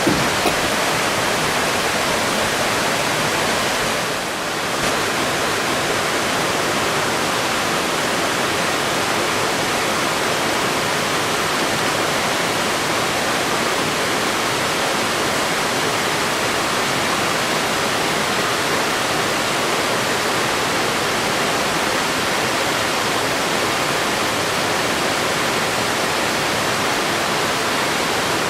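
Steady rushing of Biwa Falls, a mountain waterfall pouring into its pool, an even, unbroken water noise.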